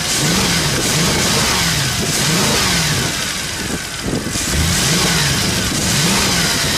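Mercedes-Benz C63 AMG's 6.2-litre naturally aspirated V8, heard with the hood open, blipped over and over so the engine note rises and falls about every half second, with a brief easing a little past halfway.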